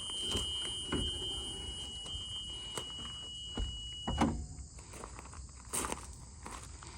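School bus door alarm buzzer sounding a steady high tone, signalling an open door. About four seconds in, a heavy clunk, likely the door being shut, and the buzzer cuts off; scattered knocks and footsteps follow.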